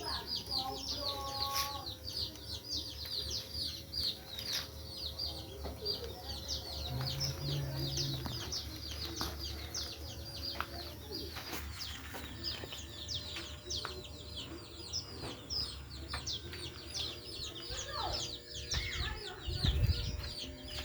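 Birds chirping in quick, repeated short high calls, with a low thump near the end.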